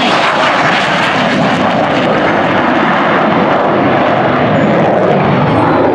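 Twin-engine F-15 Eagle jet with Pratt & Whitney F100 turbofans, a loud, steady jet roar as it flies its display.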